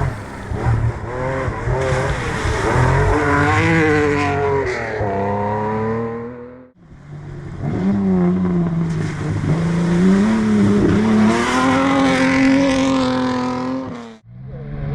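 Classic rally car engines revving hard and shifting up and down through the gears at speed. The sound drops out abruptly about six and a half seconds in and again near the end.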